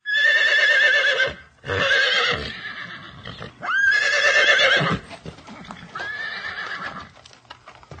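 Horse whinnying four times, each a wavering, quavering call, the last one fainter, with hoofbeats clopping in the second half.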